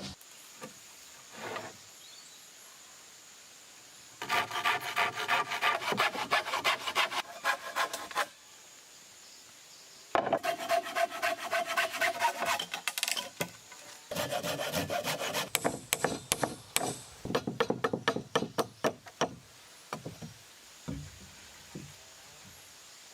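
Hand saw cutting wood in three bouts of quick, rhythmic back-and-forth strokes, with short pauses between the bouts.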